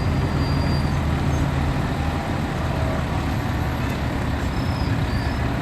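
Heavy truck engine running steadily with a low hum, over street traffic noise.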